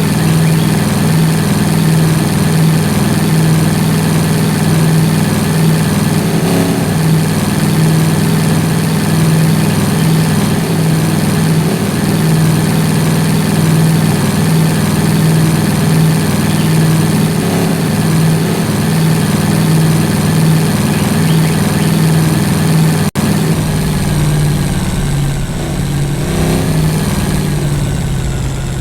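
Vehicle engine running at a steady pace. About twenty-three seconds in there is a brief break, and after it a deeper rumble comes in underneath.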